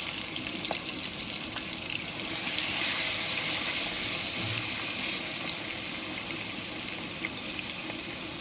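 Curry-seasoned chicken pieces sizzling as they start to fry in a hot pot, a steady hiss that swells a little about three seconds in and then eases.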